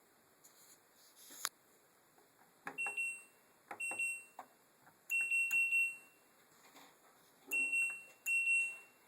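LG F80C3LD washing machine's control panel beeping: one high tone sounds five times, short, short, a longer one, then two short, with sharp clicks around the beeps and a louder click about a second and a half in. The beeping goes with the machine's fault: after the cotton cycle the water does not drain.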